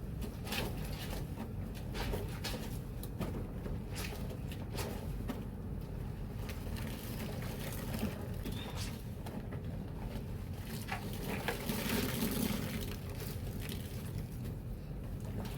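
Water sloshing and splashing as wet bedsheets are worked by hand in a basin of soapy water, in irregular strokes, growing busier a little after the middle.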